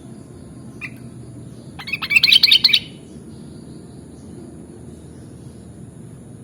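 Sooty-headed bulbul (kutilang) calling: a short chirp about a second in, then a quick, loud run of rapid notes lasting about a second.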